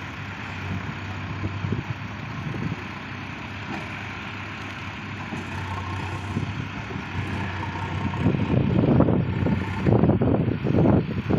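Engine of a heavy vehicle running steadily in a field recovery, with louder, uneven noise in the last few seconds.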